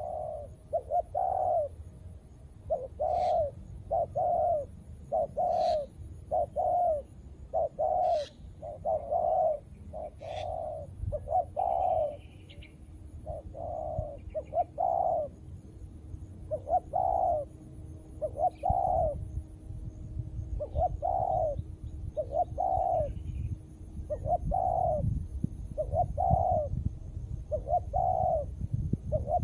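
Spotted doves (tekukur) cooing in a steady run of short, low coos, about one a second, with a few brief pauses. A few faint sharp chirps sound during the first third.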